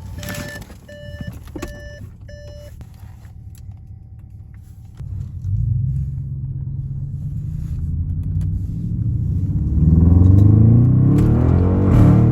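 Straight-piped twin-turbo V8 of an Audi A8L 4.0T rumbling low, with a run of evenly spaced electronic beeps over it in the first couple of seconds. About five seconds in the exhaust gets much louder, and near the end the engine note climbs and falls in pitch as it is revved.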